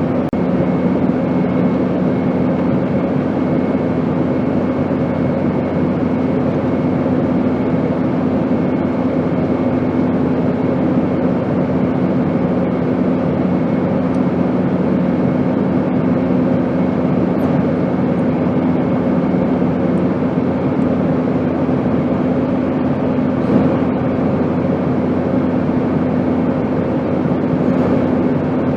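Airplane noise: a steady, unchanging roar with a low, constant hum running through it.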